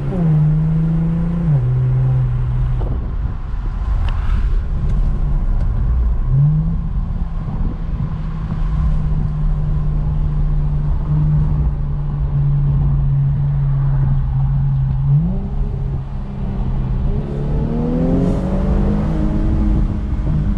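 Twin-turbo 3.0 V6 of a 2018 Infiniti Q50 with a muffler delete, heard from inside the car with the windows down under light throttle. The engine note climbs near the start, again at about six seconds and over the last few seconds, holding steady between, over road and wind noise.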